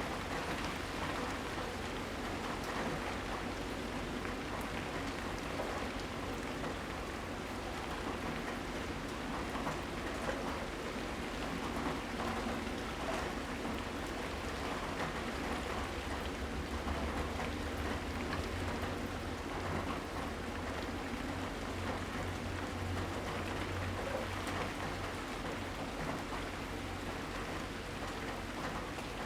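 Steady rain falling, with scattered drops tapping on surfaces and a low rumble underneath.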